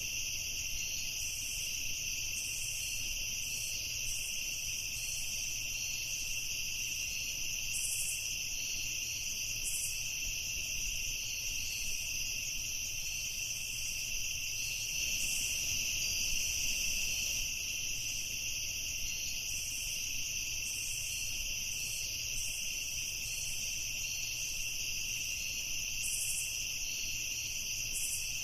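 Night ambience of crickets and other insects chirring in a steady, continuous chorus, with several high-pitched trills layered together.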